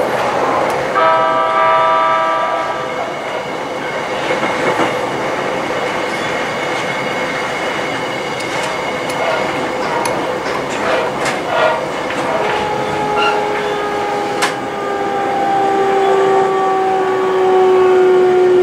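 Electric train running, heard from inside the carriage: steady running noise with scattered rail clicks. About a second in, a horn sounds for roughly two seconds. In the second half, the motor's whine falls slowly in pitch as the train slows for the next station.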